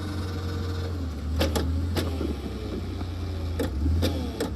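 Hydraulic post-hole auger machine's engine running steadily under load while the auger bores into frozen ground with tree roots, with several sharp knocks and cracks from the bit working against the root and rock.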